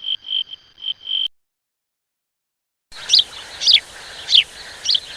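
High-pitched animal calls from forest nature-sound clips. A steady high note pulses four times in just over a second and cuts off; after a short silence, a run of quick falling chirps comes about every 0.6 s over a faint hiss.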